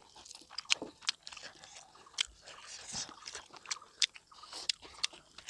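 A person chewing food close to the microphone, with a run of irregular sharp crunches and wet mouth sounds.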